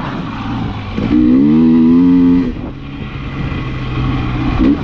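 KTM 300 XC-W TPI two-stroke dirt bike engine running on the trail. It revs up hard and rising for about a second and a half, about a second in, then backs off to a lower, rougher note.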